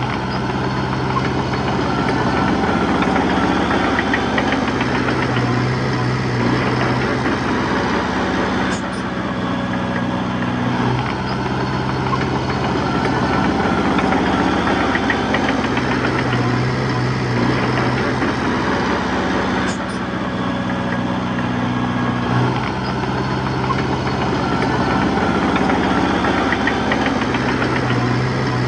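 Diesel engine of a small bulldozer working steadily, its note dipping and picking up every few seconds as the load changes.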